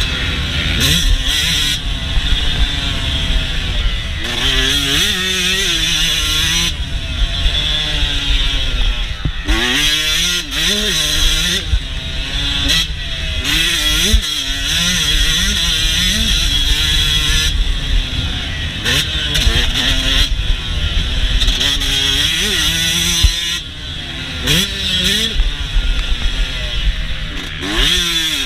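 Yamaha YZ125's two-stroke single-cylinder engine heard on board, revving up and dropping off again and again, its pitch climbing and falling with throttle and gear changes. A couple of sharp knocks stand out along the way.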